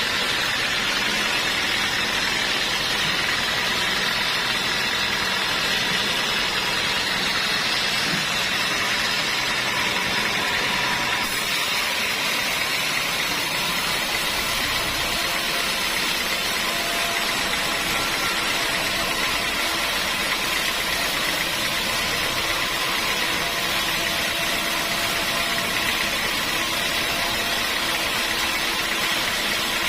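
Sawmill machinery running steadily with an engine-like drone. The sound changes abruptly about eleven seconds in.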